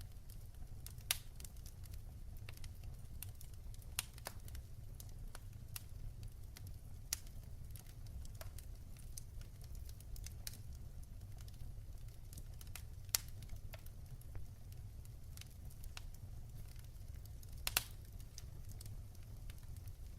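Wood fire burning in a fireplace, crackling with sharp irregular pops over a steady low rumble of the flames; a few louder snaps stand out, about a second in, at four seconds, around thirteen seconds and near the end.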